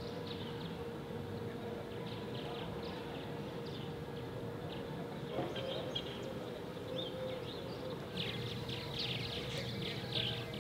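A flock of small birds chirping, the calls growing much busier about eight seconds in, over a steady low hum.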